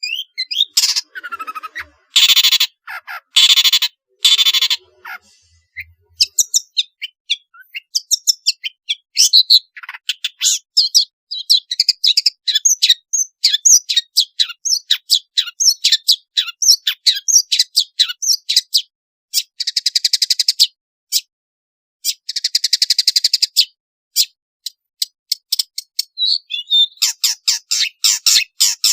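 Long-tailed shrike (pentet) singing a varied song. It opens with a few harsh buzzy calls, then runs into a long stretch of quick, sharp chattering notes. Two more harsh buzzes come past the middle, and the quick notes return near the end.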